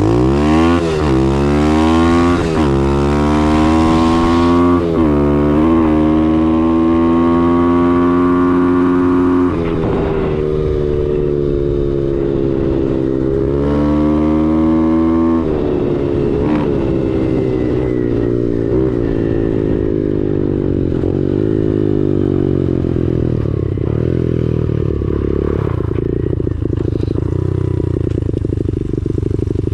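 X-Pro Storm 125cc pit bike engine pulled hard through the gears. The revs climb steeply and drop back with each of several upshifts, hold high for several seconds, then fall away about halfway through as the bike slows, running at lower revs after that.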